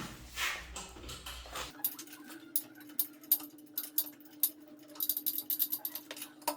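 Irregular sharp taps and clicks of hand tools working at an old toilet bowl as it is taken off, over a faint steady hum.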